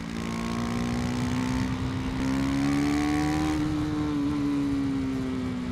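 KTM 250 Duke's single-cylinder engine running under way, its pitch rising gently through the middle and easing off slightly near the end.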